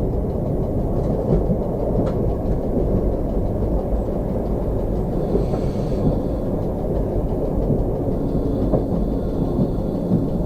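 Slovenian Railways series 813 diesel multiple unit running along the line, heard from inside the driver's cab: a steady low rumble of engine and wheels on rail. A brief hiss comes about five seconds in.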